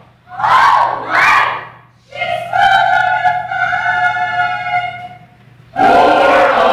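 A vocal ensemble performing together: a loud burst of voices in unison, then a long note held by the group for about three seconds, then loud unison voices again near the end.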